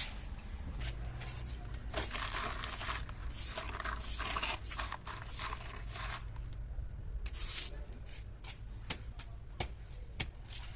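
Scrubbing and scraping during cleaning: irregular rubbing strokes with a few sharp clicks and knocks, over a low steady hum.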